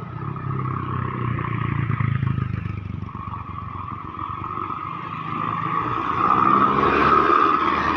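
Road traffic: a bus engine running as it drives past, with a low hum in the first few seconds, easing off, then traffic noise growing louder from about six seconds in.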